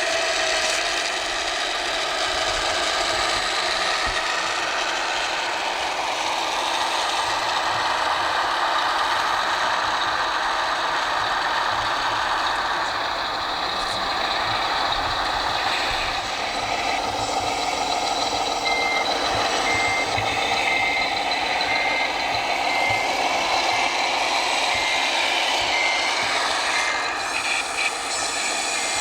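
Scale radio-controlled trucks running with their electronic sound modules. From about two-thirds of the way in, a reversing beeper beeps at a steady pace over the continuous truck-engine noise as a model backs up.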